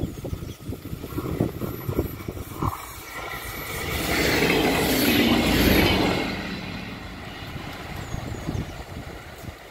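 Regional passenger train passing close by: its wheel and running noise swells to a peak about four to six seconds in, then fades as it goes away.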